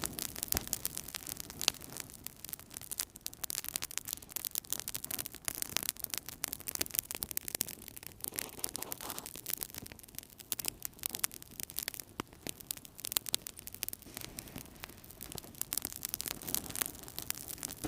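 Fire burning in a fireplace: many small, irregular crackles and pops over a steady low noise of the flames.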